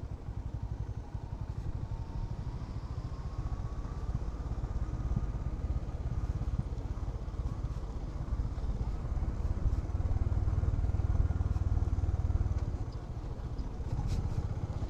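Honda H'ness CB350's single-cylinder engine running as the motorcycle rides down a steep hill road, a steady low pulsing that gets a little louder about ten seconds in.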